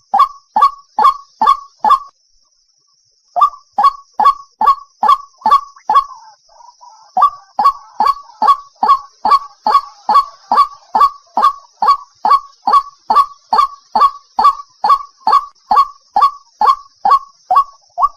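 White-breasted waterhen calling: a long run of short, sharp, loud notes, about two and a half a second, with a pause of just over a second about two seconds in.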